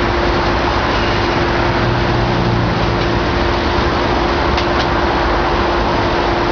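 Large demolition excavator running steadily under a constant noise, with a steady hum throughout and a faint click about four and a half seconds in.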